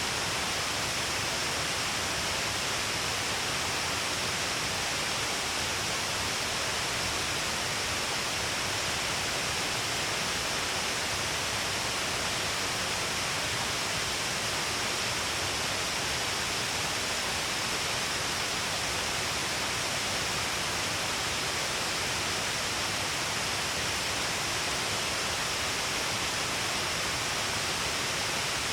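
Shiraito Falls, a wide curtain of water falling all along a cliff, giving a steady, unbroken rush of falling water.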